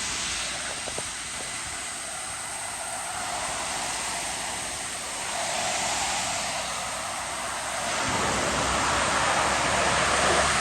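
Passing road traffic: tyre and engine noise swelling and easing, growing louder near the end as a vehicle approaches.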